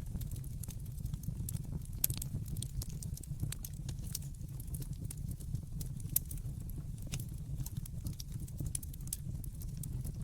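Wood fire crackling in a fireplace: irregular sharp snaps and pops over a steady low rumble of the burning logs, with louder pops about two seconds in and about six seconds in.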